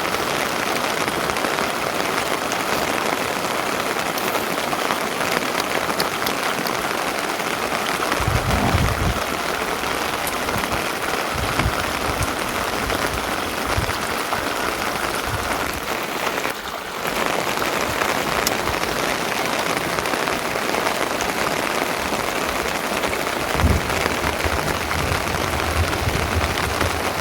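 Steady rain falling, an even hiss of drops, with a few low thuds about eight seconds in and again near the end.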